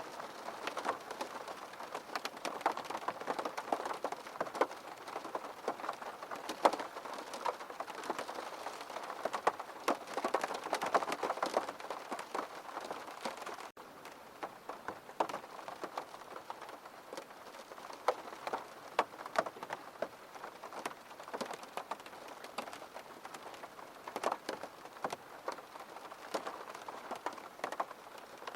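Steady rain falling, with many individual drops heard as sharp, close taps over the wash of the rain. It eases a little about halfway through.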